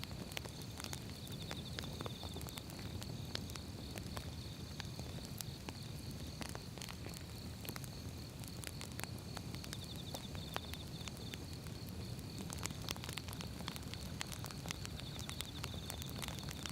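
Wood fire burning, with firewood crackling in irregular sharp pops over a low steady rumble of flames. A faint steady high tone runs underneath, and a brief rapid high trill comes three times.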